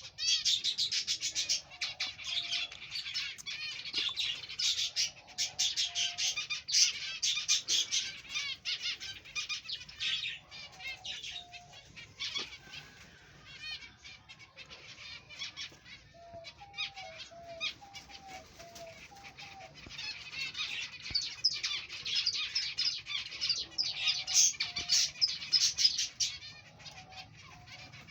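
A colony of aviary finches chirping together, a dense chatter of high calls that thins out in the middle and builds up again after about twenty seconds. About sixteen seconds in, a short run of lower repeated notes stands out from the chatter.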